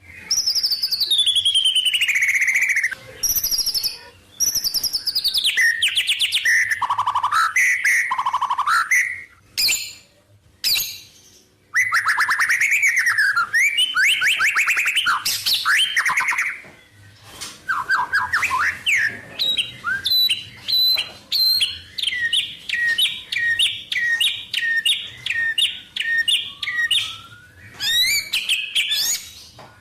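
White-rumped shama singing a long, varied song full of mimicked wild-bird phrases. Descending whistles and fast trills come first, and past the middle there is a long run of quick repeated notes.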